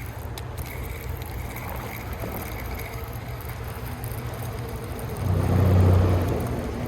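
Low, steady rumble of a motor, swelling louder about five seconds in.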